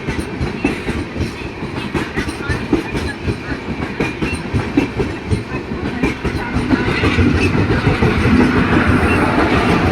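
Saket Superfast Express passenger coaches rolling past, their wheels rumbling and clattering over the rail joints, growing louder about seven seconds in.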